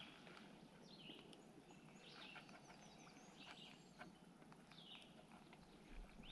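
Near silence with faint songbird chirps and twittering, short calls coming every second or so.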